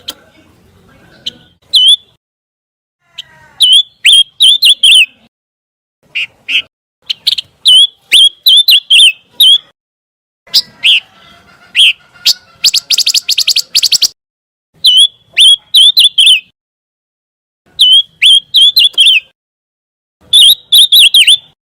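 Pancawarna bird singing: repeated phrases of sharp, quick, high chirps, each phrase about a second long with short gaps between, broken twice by a fast rattling trill.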